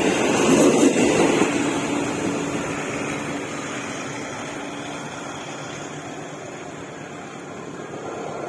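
Passenger train running past, loud in the first second or two and then fading steadily as it draws away, with a steady hum under the rumble for the first few seconds.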